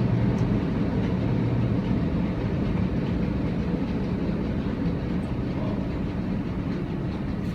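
Steady rumble of drive-through car wash machinery heard from inside the car, slowly fading.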